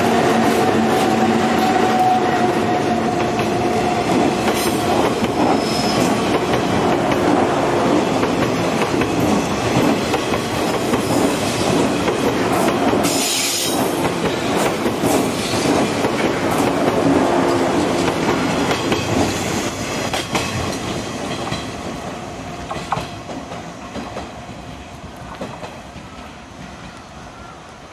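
EF63 electric locomotives and a 189 series express electric train passing close by: wheels clattering over the rail joints over a dense running noise, with a steady hum at first. The noise fades steadily over the last several seconds as the train draws away.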